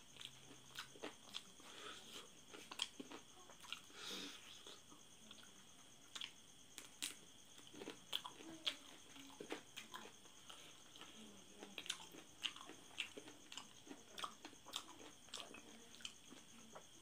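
Faint close-up chewing of saucy chicken feet: an irregular run of wet smacks and clicks from lips and mouth as skin and cartilage are eaten off the bones, with a few small crunches.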